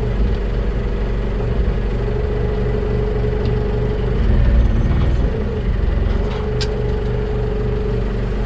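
Sawmill's engine running steadily with a steady whine over it; the sound swells briefly and the whine breaks off about halfway through, then settles again.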